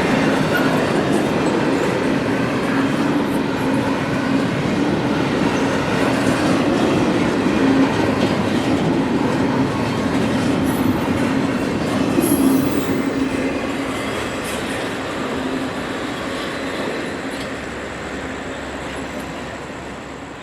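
Freight train cars rolling past on steel rails with a steady clatter of wheels, and a couple of brief high wheel squeals about halfway through. The sound fades away over the last several seconds.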